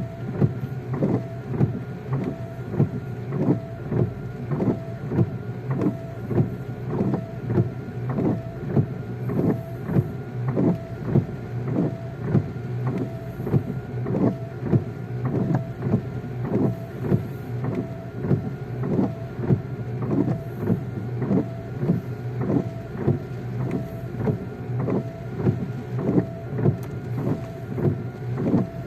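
Riding in a vehicle in the rain: a steady engine hum with a regular sweeping beat about one and a half times a second.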